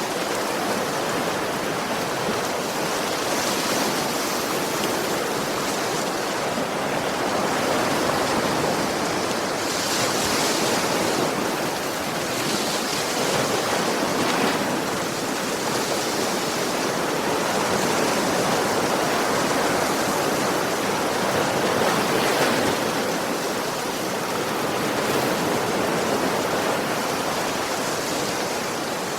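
Sea waves washing onto a shore: a continuous rush of surf that swells and eases every few seconds.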